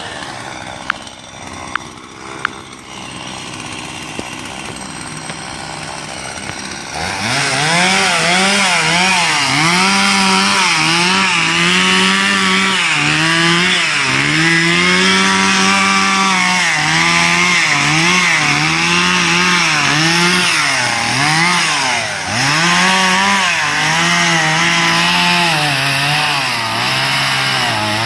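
Chainsaw cutting wood. It is quieter at first, with a few sharp clicks, then about seven seconds in it runs loud at high revs, its pitch repeatedly dipping and recovering as the chain is loaded in the cut.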